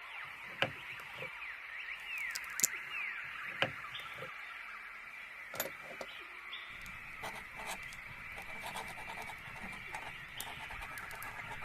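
Ambient birdsong: many small birds chirping and twittering together in a steady chorus. A few sharp clicks sound in the first half, and a low background hiss joins a little past halfway.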